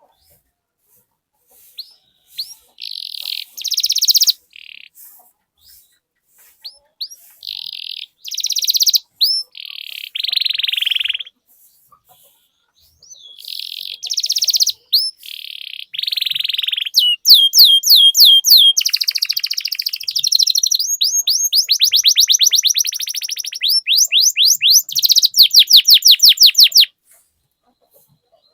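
Domestic canary singing: short high-pitched phrases broken by pauses, then from a little past halfway long rolling trills of rapidly repeated sweeping notes, which stop about a second and a half before the end.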